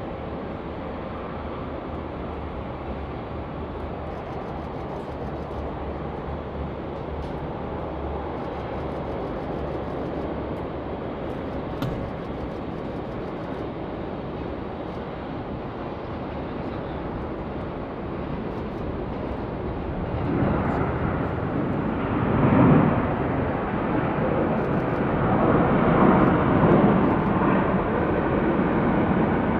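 Jet airliner arriving to land, its engine noise steady at first and growing louder about two-thirds of the way through, with two louder surges near the end.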